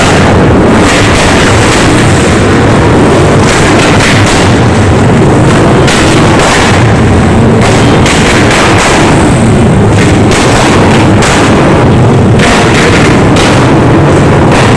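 Dirt bike engine running very loud, overloading the microphone so the sound is heavily distorted.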